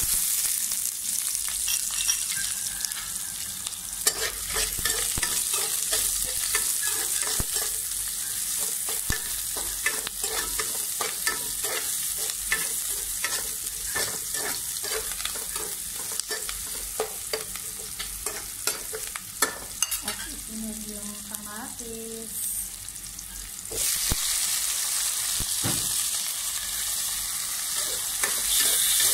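Chopped onion and garlic sizzling in hot oil in a nonstick pan, with a spatula scraping and clicking against the pan as they are stirred. The sizzle gets louder near the end as diced tomatoes go into the pan.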